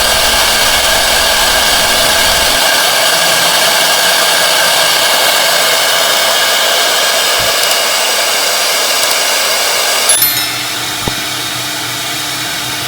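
Newly fitted CNC router spindle motor running at speed with a steady, smooth whine, its new bearings free of the abnormal noise of the old failed ones. About ten seconds in, the sound drops and turns somewhat quieter.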